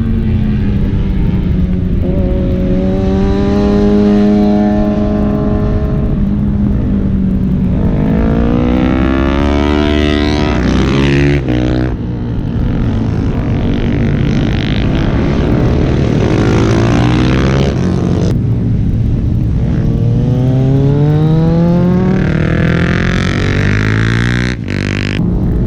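Superbike engines running hard on a race track, pitch climbing repeatedly as they rev up through the gears. The sound breaks off suddenly three times and starts again.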